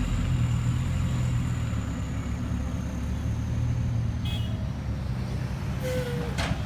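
Dump truck's diesel engine running steadily under light throttle, a low rumble with a faint high whine above it.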